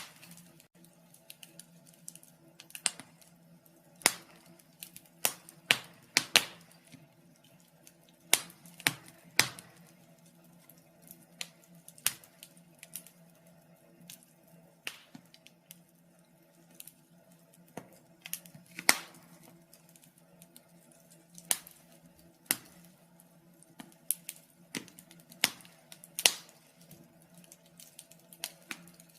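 Wood fire burning in a fireplace: irregular sharp crackles and pops, one or two a second at uneven intervals, over a faint steady hum.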